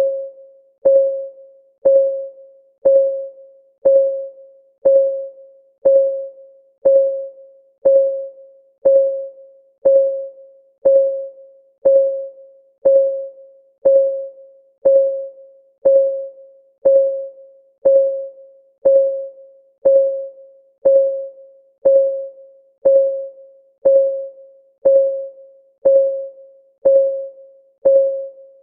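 Countdown timer's clock-ticking sound: a short, pitched tick once a second, each one dying away before the next, in a perfectly even rhythm.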